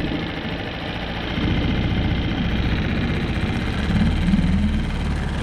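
Small engine running at idle, a steady low drone that grows a little louder about a second and a half in.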